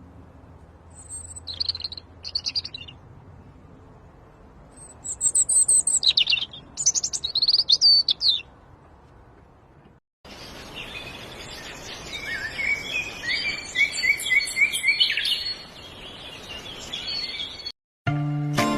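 Small birds chirping and calling, with bursts of quick high trills. About ten seconds in the sound cuts to a different stretch with a busier chorus of chirps, including a run of short repeated falling notes.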